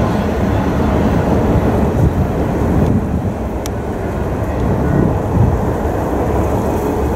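Double-stack intermodal container freight train rolling past, a steady low rumble of wheels on rail as its last cars go by.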